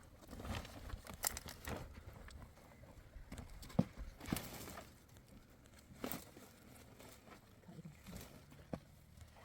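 Scattered knocks, taps and scuffs at irregular intervals, the sharpest a little under four seconds in.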